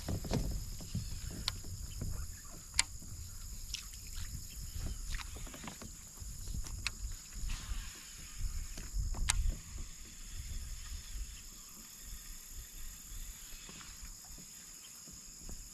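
Small clicks and knocks from fishing gear being handled in a kayak, scattered through, over a low uneven rumble, with a steady high-pitched buzz in the background.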